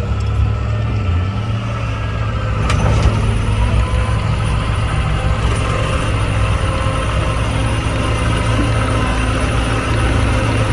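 Heavy earthmoving machinery's diesel engine running steadily, with a brief click a few seconds in.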